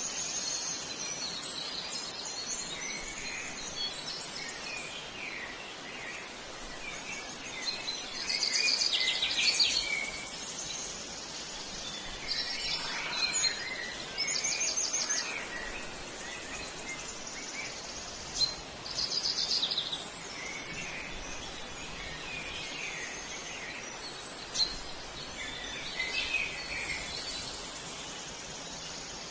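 Several birds chirping and singing in short, high calls over a steady outdoor background hiss, with the loudest runs of rapid calls about a third of the way in.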